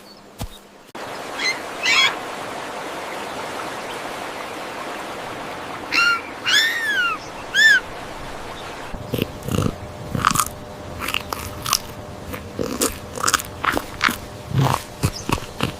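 Animal chewing and crunching: many short, irregular crunches over a steady outdoor background, with three short arched chirps about six to eight seconds in.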